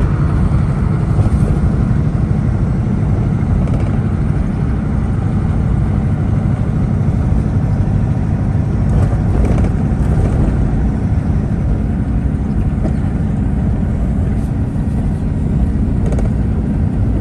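Steady low drone of a semi truck's engine and road noise while driving, heard from inside the cab.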